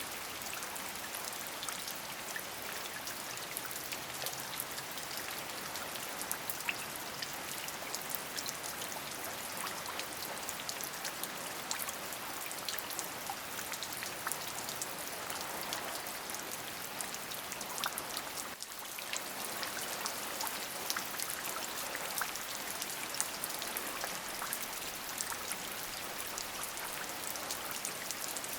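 Steady rain falling, a dense even hiss sprinkled with many separate drop ticks, dipping briefly about two-thirds of the way through.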